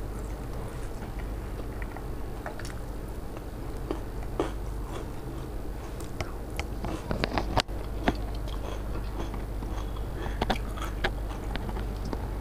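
Close chewing and biting of a fried potato fritter (aloo chop), with wet mouth clicks and smacks. The clicks come thickest just past the middle, where one sharp click is the loudest sound, over a steady low hum.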